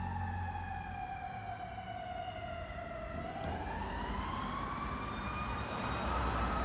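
Fire truck siren wailing: the tone falls slowly for about three seconds, then climbs back up. A low engine rumble runs beneath it.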